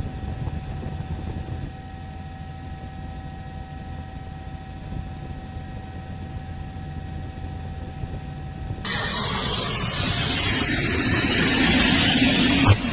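A steady low vehicle rumble with a faint steady tone. About nine seconds in, it gives way abruptly to a louder hissing noise, with a sharp knock near the end.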